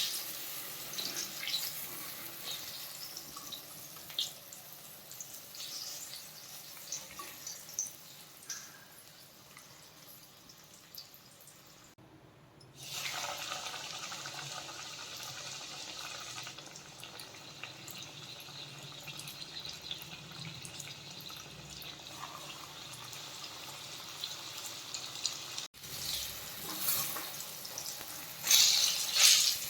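Oil sizzling and crackling steadily as marinated chicken pieces deep-fry, with scattered pops. The sound changes abruptly twice, about 12 and 26 seconds in, at edit cuts.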